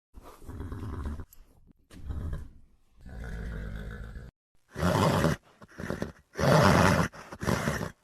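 Horse calls: a run of about seven separate loud, rough calls of varying length with short pauses between them, the loudest in the second half.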